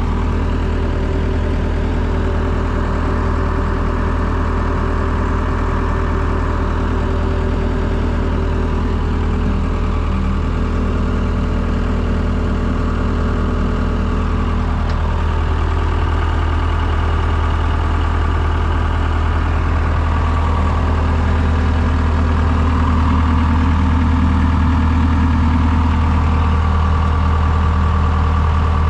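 Diesel engine of a 2004 Case 90XT wheeled skid steer running steadily at a low, even speed, growing slightly louder in the last several seconds.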